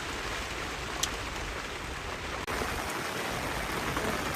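Steady rain falling, an even hiss of drops, with a single sharp tick about a second in.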